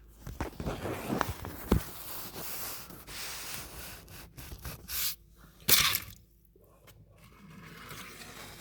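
Rustling and scraping of the camera being handled and moved in a cramped space, with a few sharp knocks, the loudest a little under six seconds in.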